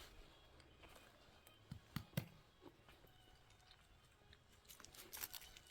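Near silence broken by a few faint clicks and knocks, the strongest about two seconds in and a small cluster near the end.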